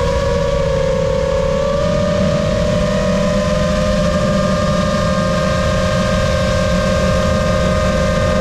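Brushless motors and propellers of a 5-inch FPV freestyle quad whining steadily, the pitch dipping and wavering slightly about a second or two in, over a low rumble.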